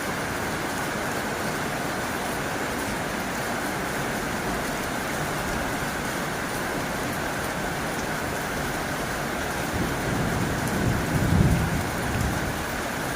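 Heavy rain falling steadily on a tin roof, with a low rumble that swells about ten seconds in and fades near the end.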